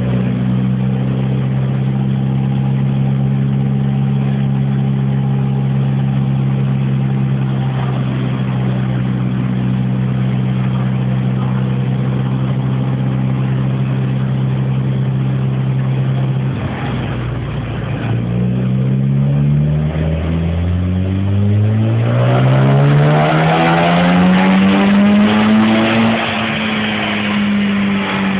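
Mitsubishi Lancer Evo IX FQ-320's turbocharged 2.0-litre four-cylinder running on a rolling road. It holds steady revs, dips about seventeen seconds in, then revs up in one long climb that peaks near the end and eases off slightly.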